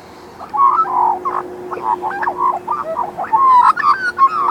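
Australian magpie warbling softly: a run of short, varied notes that jump up and down in pitch, broken into quick phrases.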